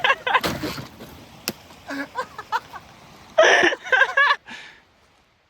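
Voices calling out indistinctly over an icy trail, with a short noisy rush about half a second in and a sharp click about a second and a half in; the sound drops away abruptly near the end.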